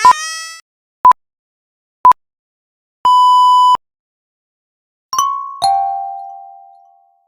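A wind instrument's wavering note ends, then countdown beeps: three short beeps a second apart and one longer beep on the same pitch. About two seconds later a two-note chime sounds, high then lower, the lower note ringing away slowly.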